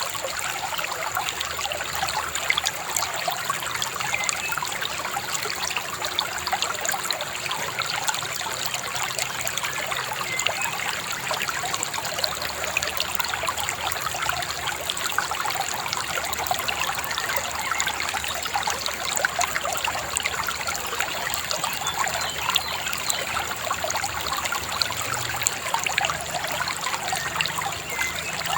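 Shallow river babbling steadily, a dense run of small trickles and splashes that does not let up.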